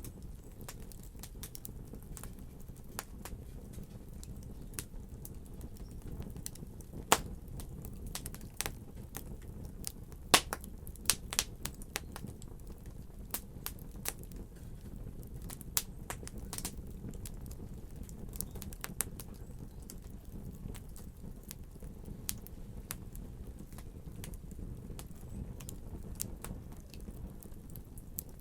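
Wood fire burning in a fireplace: a steady low rumble of flames with irregular sharp crackles and pops, the loudest a few pops around a third of the way in.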